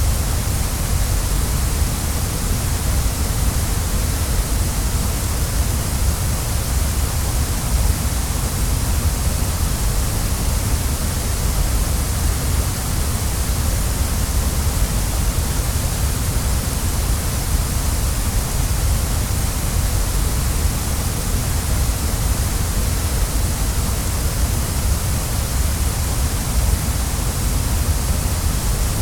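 Waterfall: falling water rushing in a steady, unbroken roar, with a deep rumble underneath and a hiss on top.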